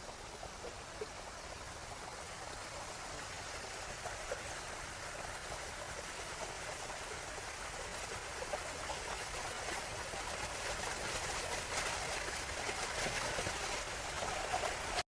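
Steady rush of running water, such as a stream or small waterfall, growing slowly louder toward the end.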